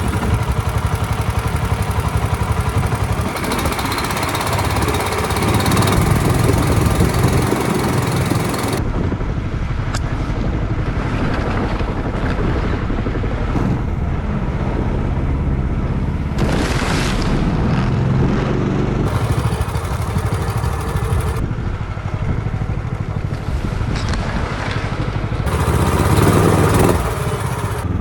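Longtail mud motor with a weedless prop running under power on a jon boat, a steady loud engine note, with hissing noise that swells and drops away several times.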